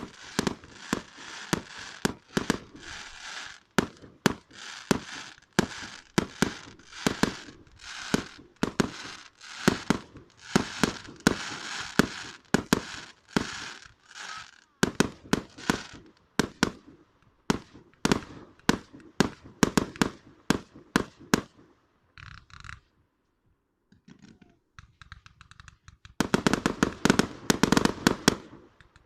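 Fireworks going off: a rapid series of sharp bangs, two or three a second, with crackling between them. They break off for a couple of seconds a little past two-thirds of the way through, then a dense burst of crackling bangs comes near the end.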